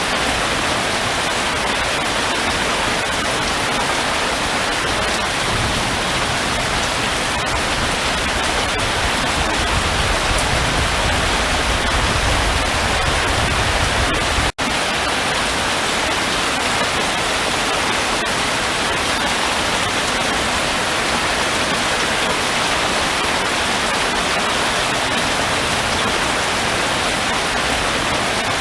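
Steady hiss of heavy rain. A low rumble builds through the first half, and the sound cuts out for an instant about halfway through.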